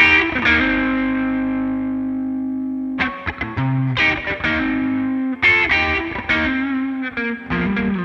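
Yamaha RS620 electric guitar played through a Greer Amps Lightspeed overdrive pedal, lightly overdriven. A chord is struck and left to ring out, fading for a couple of seconds. About three seconds in, a run of picked notes and chords follows.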